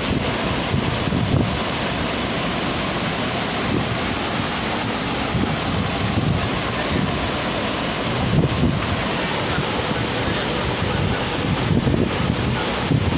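Steady rush of water from a FlowRider surf simulator pumping its sheet of water, with wind buffeting the microphone in brief gusts.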